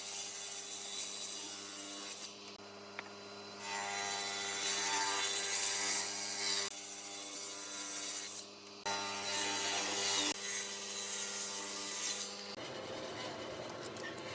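A power tool working wood, its motor humming steadily while rough sanding or cutting noise comes and goes. The noise drops out briefly twice.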